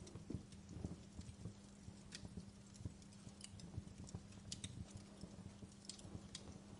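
Wood fire crackling: irregular sharp snaps and pops, with many small soft knocks, over a steady low hum.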